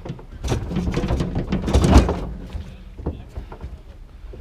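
Heavy metal barbecue grill being shoved into a vehicle's load bed: a run of thuds and scraping, the loudest thud about two seconds in, then a few lighter knocks.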